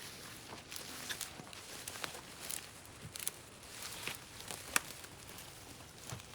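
Irregular rustling with scattered sharp clicks and snaps.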